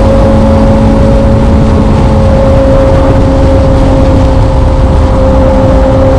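Motorcycle engine running at steady revs while riding, its note holding one even pitch throughout, over a dense low rumble.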